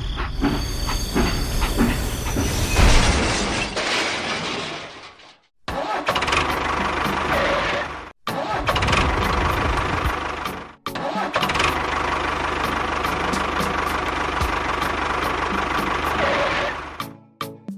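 A motor running steadily with a faint whine, heard in several short stretches that each cut off abruptly.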